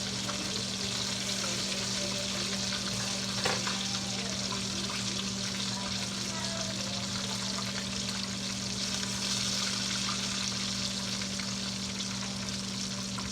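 Chicken frying in hot oil: a steady sizzle with a steady low hum underneath and a single click about three and a half seconds in.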